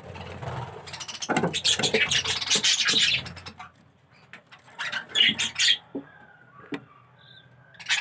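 A phone or hand scraping and rubbing against the inside of a budgie nest box for about two seconds as the box is opened and looked into. A few short sharp calls from budgerigars follow in the second half.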